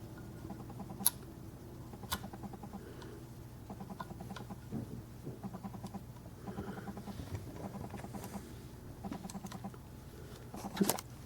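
Light clicks and taps from handling a 1/50 scale diecast model truck, its small parts being moved, with sharper clicks about a second in and near the end, over a low steady hum.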